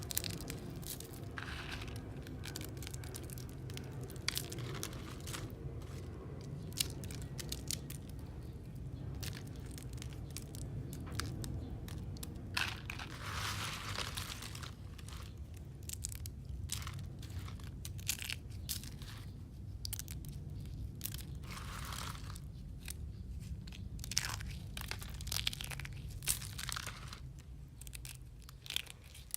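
Crunchy blue recycled soap crunching and crumbling, with dense, irregular crisp crackles and snaps and a few longer crumbling stretches.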